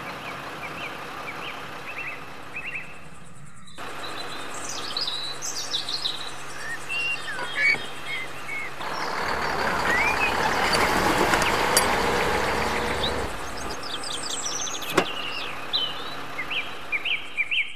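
Small birds chirping repeatedly. In the middle comes a loud rustling hiss lasting about four seconds, and near the end there is one sharp click.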